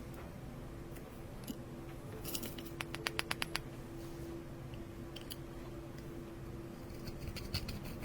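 Slime being worked by hand, with small sticky clicks and pops, including a quick run of about eight clicks around three seconds in, over a faint steady hum.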